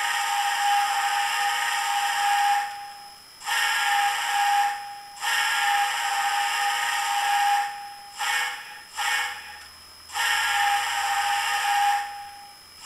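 Sampled USRA six-chime steam whistle from a Soundtraxx Tsunami decoder, played through a tiny model-locomotive speaker, blown in a series of long and short blasts. There are long blasts of about two seconds each, a shorter one, and two quick toots about eight seconds in.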